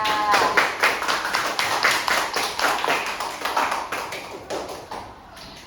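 A class of students clapping their hands in applause, thinning out near the end.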